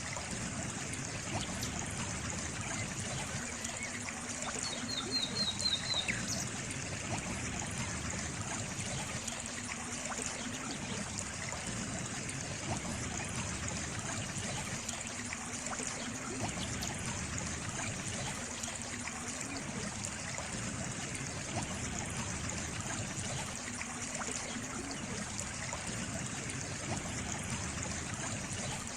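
Steady trickle of running water, like a small stream. About five seconds in there is a brief run of quick, high chirps.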